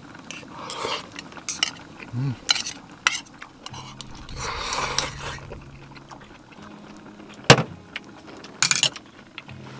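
Cutlery and dishes clinking against a pot, with a few sharp separate clinks and a short stretch of stirring or scraping around the middle. The loudest clink comes about seven and a half seconds in.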